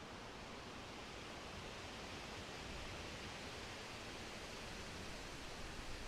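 Wind blowing steadily as an even hiss, swelling a little about halfway through.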